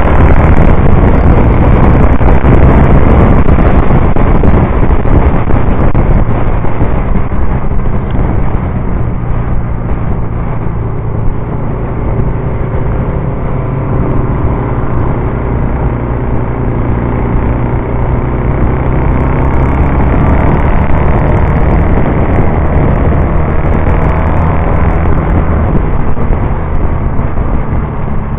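Norton Commando 850's parallel-twin engine heard from a camera mounted on the bike, running hard on track. The engine note drops about ten seconds in, climbs back, and eases again near the end.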